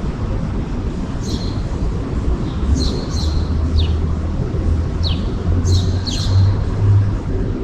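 A bird chirping again and again, short high chirps falling in pitch, about one a second, over a low rumble that grows louder in the second half.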